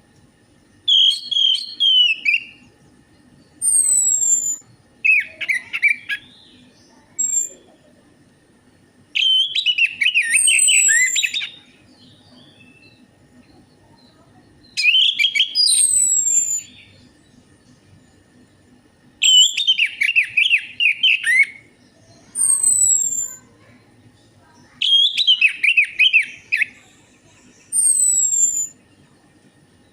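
Orange-headed thrush song played as a lure: short bursts of rapid warbled, whistled notes about every four to six seconds, with thin high downward-gliding whistles between and before the phrases.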